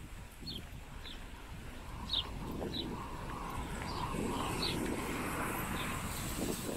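Small birds giving short, high chirps every second or so over outdoor background noise that grows louder through the middle.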